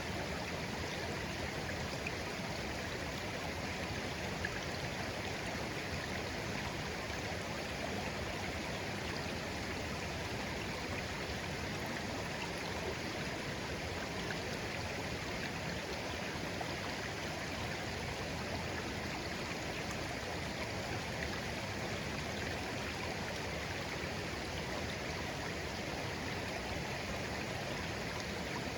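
Shallow clear stream flowing steadily over stones, a constant babble of running water.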